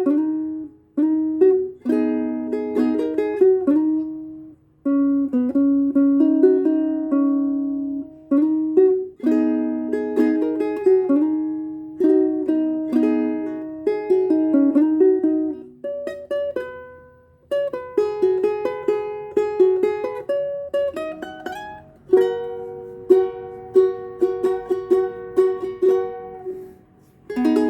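Solo ukulele tuned a half step down, playing the closing instrumental passage of the song: picked melody notes over chords, each ringing out and fading, with a few notes sliding in pitch.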